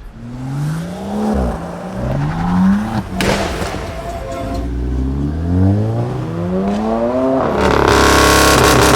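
Car engine accelerating hard up through the gears, its pitch climbing and falling back at each shift. Near the end it gives way to a loud, steady engine and exhaust sound close by.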